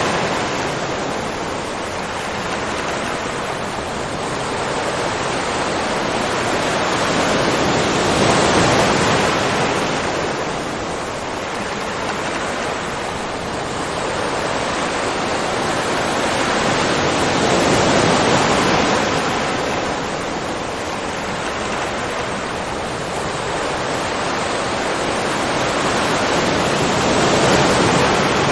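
Ocean surf: a continuous rush of waves that swells into a louder break and eases back roughly every nine to ten seconds, three times.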